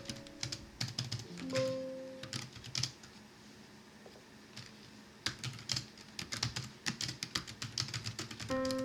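Computer keyboard typing in irregular runs of key clicks, with a pause in the middle, over soft background music of gently held notes.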